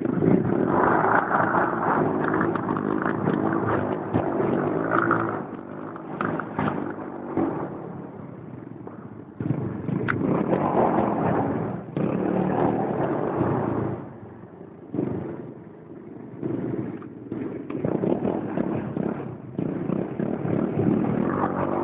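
Small single-cylinder pit bike engine revved hard during a burnout, its rear tyre spinning. The engine rises and falls back repeatedly, with a sudden surge about halfway through.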